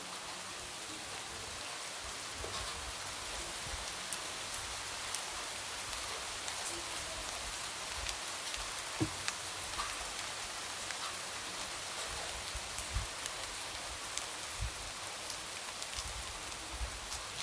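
Steady light rain with scattered drops tapping against a window.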